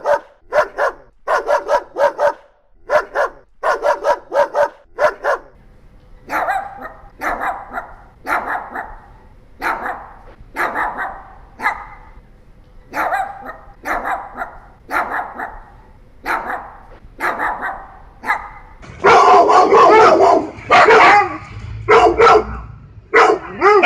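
Dogs barking in repeated single barks. The barking changes character twice: sharp, quick barks at first, a steadier run of about one bark every 0.7 s from about 6 s in, then much louder, dense barking from about 19 s in.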